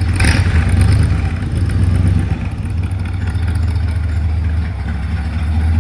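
1972 Corvette's 350 small-block V8 idling steadily, with a brief sharp noise just after the start.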